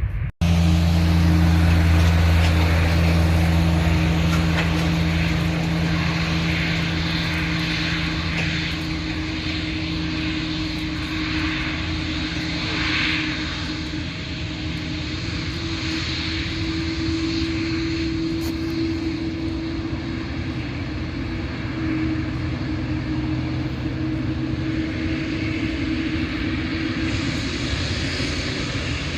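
Airliner engines running steadily close by: a continuous drone with a low, even hum, loudest in the first few seconds and easing off gradually.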